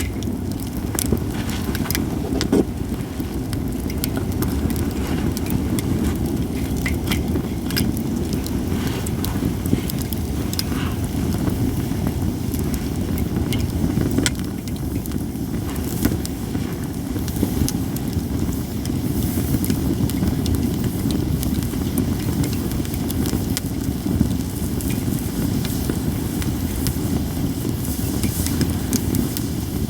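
Japanese cedar wood fire crackling, with scattered sharp pops, over a steady low rumble.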